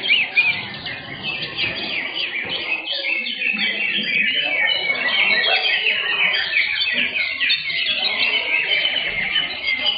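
Cucak hijau (green leafbird) songbirds singing a rapid, dense stream of chirps and short trilled notes that overlap without pause, as caged birds compete in a songbird contest.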